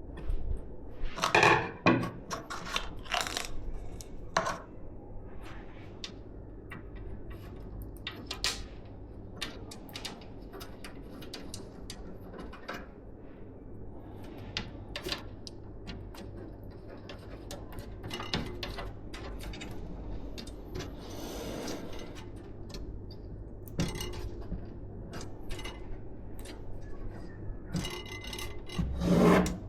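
Hands handling computer parts and the case: scattered small clicks and taps with a stretch of rubbing, and louder clattering about a second in and again near the end.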